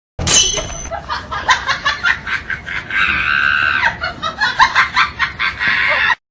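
People laughing hard in quick, repeated bursts, with a long high-pitched cry about three seconds in that falls in pitch at its end.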